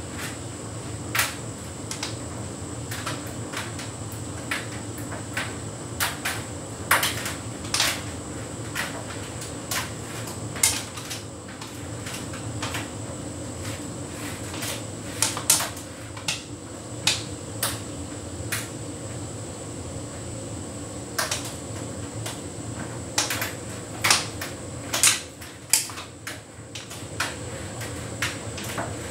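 Hotpoint heat pump tumble dryer running a synthetics cycle: a steady machine hum with a thin high whine, and irregular sharp clicks and taps as the load tumbles against the drum, thickest around a quarter, half and four-fifths of the way through.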